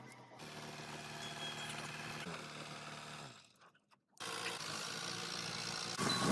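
A motor vehicle engine running steadily, heard in short cut-together clips with a brief drop to near silence about halfway through.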